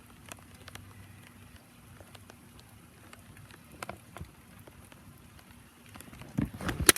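Heavy tropical rain falling and pattering on surfaces, with single drops ticking here and there. A few louder knocks come near the end.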